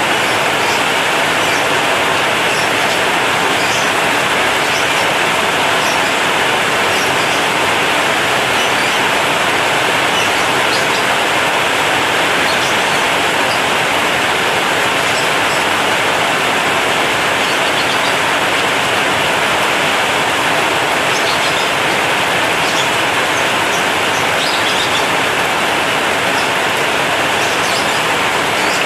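Heavy rain falling on a corrugated zinc roof: a loud, steady hiss with scattered sharper drop ticks.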